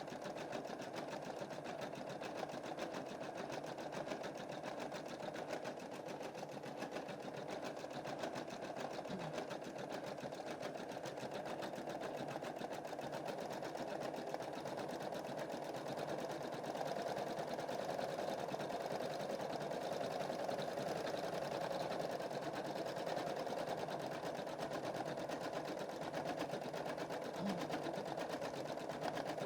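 Computerized embroidery machine stitching a design, a steady rapid needle chatter without pause.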